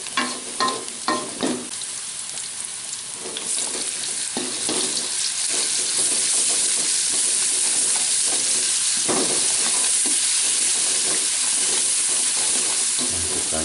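Sliced shallots and chilies sizzling in hot oil in a wok while a spatula stirs and scrapes the pan, with a run of scraping strokes in the first couple of seconds. The sizzling gets louder and steadier about three and a half seconds in.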